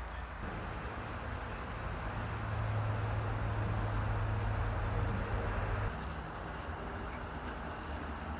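Background vehicle noise: a steady rush with a low engine hum that swells in the middle and drops away suddenly about six seconds in.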